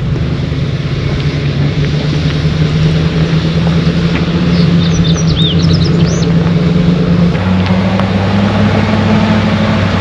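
Pickup truck engine running steadily, its pitch stepping up a little about seven and a half seconds in. A bird chirps a few times midway.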